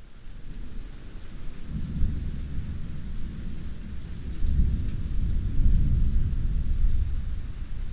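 Heavy rain with a long, deep rumble of thunder rolling under it. The rumble swells about two seconds in, is loudest past the middle and eases off near the end.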